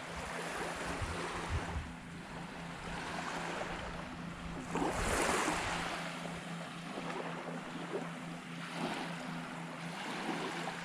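Small waves washing onto a beach, swelling and fading, with one louder wash about five seconds in, and wind buffeting the microphone.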